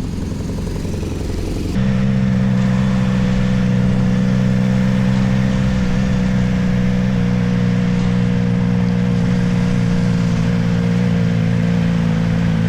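Motorcycle engine running at a steady pace while riding. It gets louder about two seconds in, then holds an even, constant drone.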